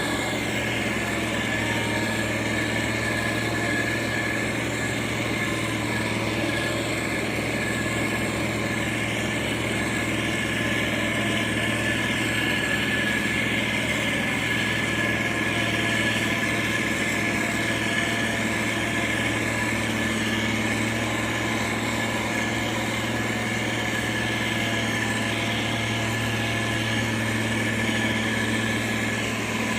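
Motor grader's diesel engine running steadily, with a thin steady high whine over the low engine note.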